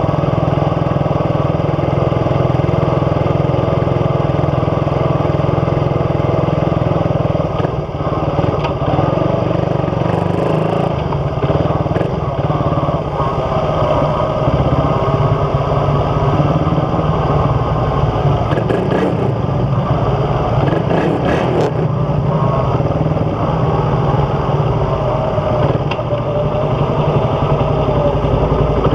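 Suzuki Raider 150's single-cylinder four-stroke engine running through a big-elbow exhaust with the catalytic converter removed. The engine speed rises and falls now and then. It is picked up by a damaged camera microphone.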